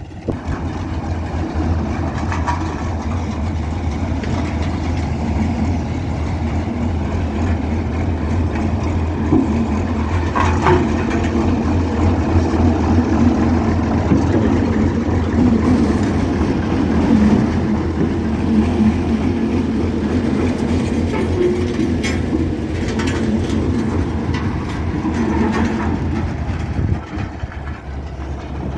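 Engine of heavy road-repair machinery running steadily, with a continuous low drone and a rumbling clatter over it.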